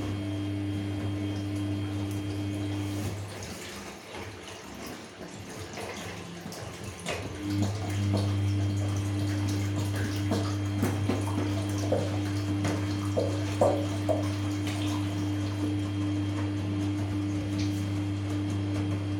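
Samsung P1271 front-loading washing machine mid-wash: water sloshing and small knocks over a steady machine hum. The hum stops about three seconds in and starts again about four seconds later.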